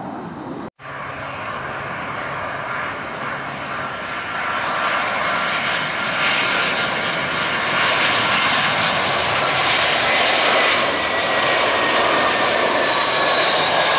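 Jet airliner engines: a steady roar that grows louder over several seconds as the aircraft comes closer, with high whining tones that slide slightly downward near the end. A brief dropout just under a second in marks an edit cut.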